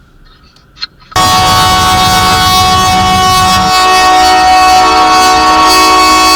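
Train air horn sounding one long, steady multi-note chord, starting suddenly about a second in and holding for about six seconds.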